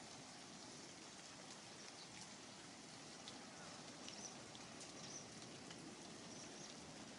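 Near silence: a faint steady hiss with a few faint, short high chirps.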